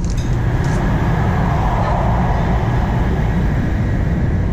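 500-series Hello Kitty Shinkansen running, heard from inside the passenger cabin: a steady low rumble with a rushing noise that swells about a second in and eases off.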